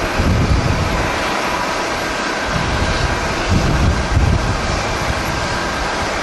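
Jet airliner engines running with a steady rush and a faint whine, as wind buffets the microphone in gusts near the start and again about halfway through.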